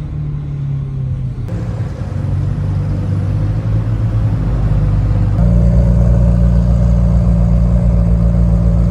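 Car engine running at steady revs, stepping up in loudness about halfway through and then holding an even drone.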